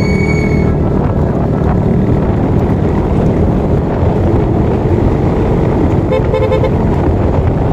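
Motorcycle running steadily on the road with loud engine and road noise; a vehicle horn beeps in a quick pulsing series about six seconds in.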